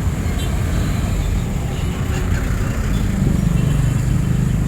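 Street traffic: vehicle engines running close by, with a low engine drone that grows louder from about three seconds in.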